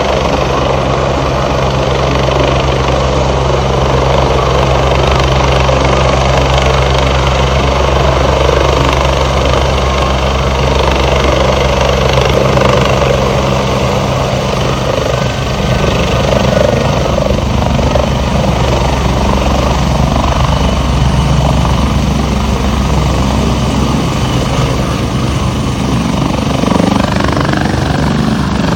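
Helicopter running close by: a loud, steady low drone with a wide rushing noise over it, the low tones shifting in the last few seconds.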